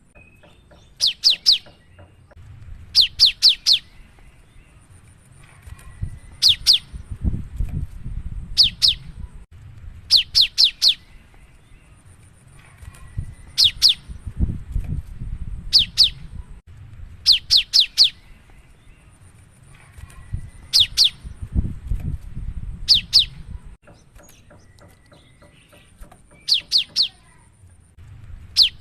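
Cinereous tit (gelatik batu) singing: loud phrases of three or four quick, sharp, high notes, each note falling in pitch, repeated about every two seconds. A low rumble comes and goes underneath.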